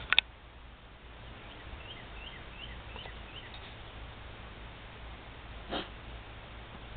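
Two sharp clicks at the very start. Then a bird calls with a quick run of about seven short, high, rising chirps, followed by a brief noisy sound near the end.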